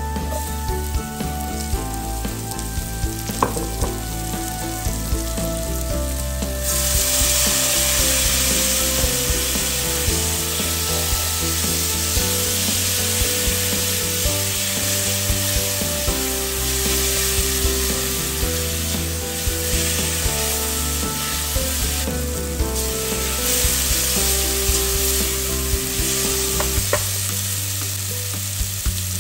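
Chopped onion and tomato frying in hot spiced oil in a metal pot, with a steady sizzle that gets much louder about seven seconds in. A spatula scrapes and taps against the pot as the mixture is stirred.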